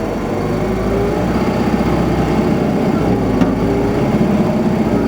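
Isuzu Erga city bus's four-cylinder diesel engine running under way, heard from inside the bus, with its pitch rising in the first second and dipping and climbing again about three seconds in, over steady road rumble.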